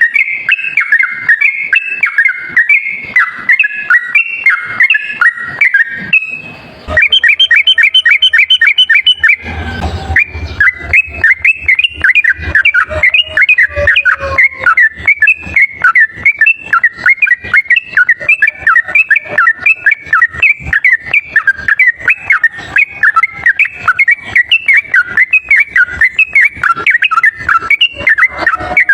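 Yellow-vented bulbul song, a loud non-stop chatter of short bubbling whistled notes run together with hardly a break. About seven seconds in comes a quicker, even run of repeated notes, then a brief noisy burst with a low hum near ten seconds before the chattering resumes.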